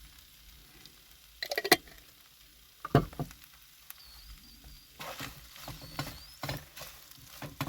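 Cooking gear being handled: a quick run of sharp clicks and knocks about a second and a half in, a couple of knocks around three seconds, then intermittent clinking and rustling with a faint thin squeak.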